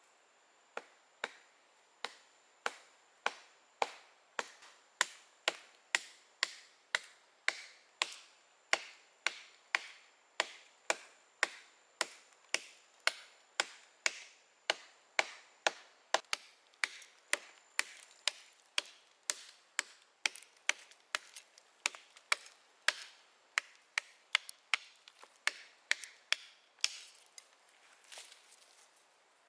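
Steady chopping with a blade into wood, sharp strikes about two a second, kept up without a break.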